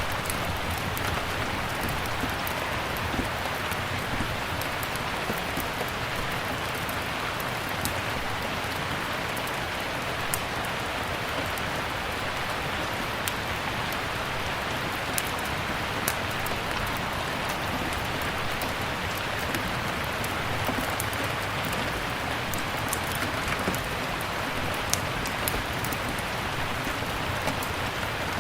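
Steady rain, a constant even hiss with scattered sharp little clicks throughout.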